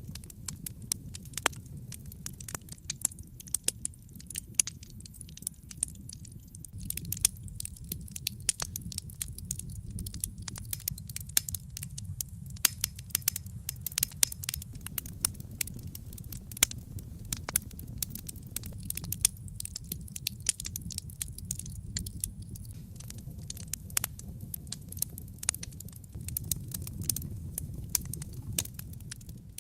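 Wood fire crackling in a fireplace: many sharp pops and snaps over a steady low rumble of burning, the pops coming thicker after the first several seconds.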